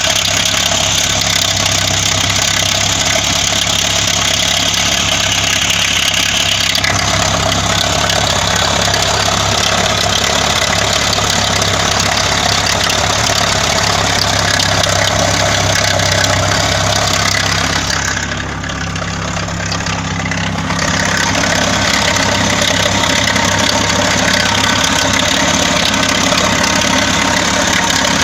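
Engine idling steadily with a knock, the engine knock the recording is made to show. The sound turns duller and a little quieter for a few seconds about 18 seconds in, then returns.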